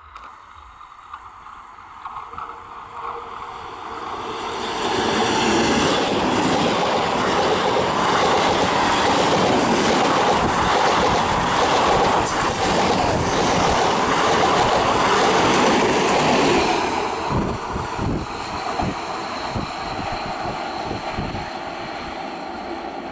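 A 12-coach electric multiple unit (EMU) suburban train passing at speed. The noise builds as it approaches, stays loud for about ten seconds as the coaches rush by, then falls away, with the wheels clacking rhythmically over rail joints near the end.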